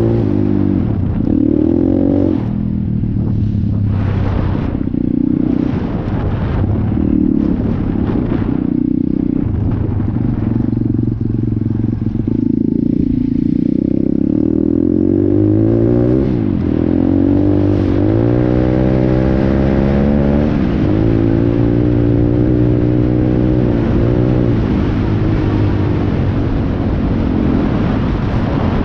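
Stomp Dirty S Detroit 170 pit bike's single-cylinder engine running under way, its pitch dropping and climbing as the throttle is closed and opened, with several quick rising revs in the second half. Short clattering knocks come through in the first part.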